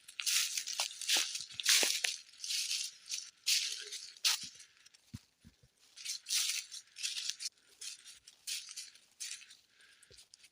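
Walking footsteps crunching on dry ground, a steady pace of about two steps a second, briefly quieter around the middle.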